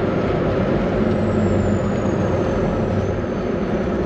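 Steady in-cab drone of a Volvo VNL 860 semi truck on the highway: engine hum with road and wind noise, and a faint high whine slowly falling in pitch through the middle.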